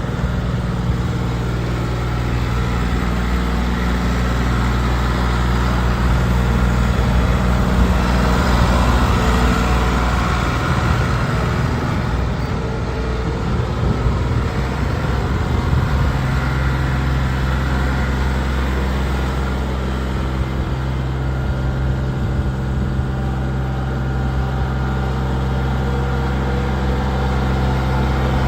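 Mahindra 1635 tractor's three-cylinder diesel engine running steadily, its note wavering and changing about halfway through as the engine speed shifts.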